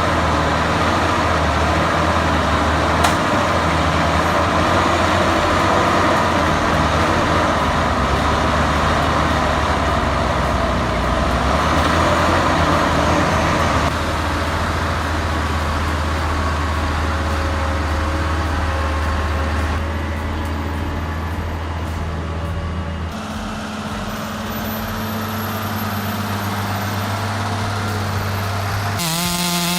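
Heavy diesel machinery engines running steadily under load with a deep drone; the engine note steps up in pitch about three quarters of the way through.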